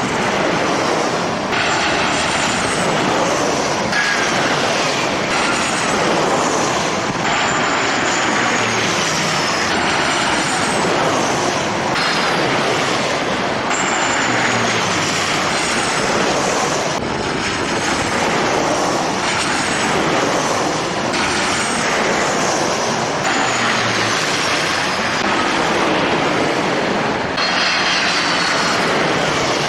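Jet airliner engines running loud and steady, with high whining tones that slide down in pitch every couple of seconds.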